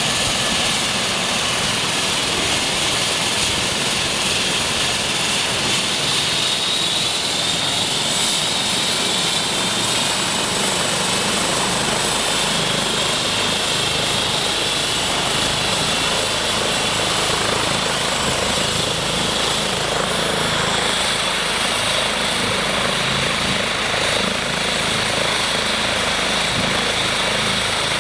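Eurocopter EC 135 T2 police helicopter running on the ground, its twin turbine engines and rotor going steadily. A high turbine whine climbs slowly in pitch over the first ten seconds, and the low rotor throb grows stronger from about eleven seconds in.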